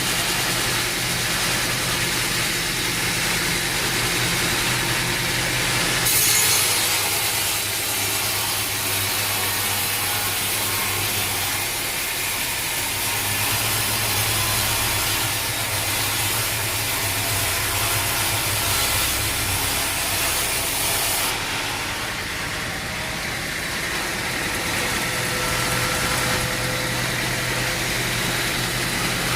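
Sawmill engine running with the saw blade cutting through an oak log. The cutting gets brighter and louder about six seconds in and eases off about twenty-one seconds in.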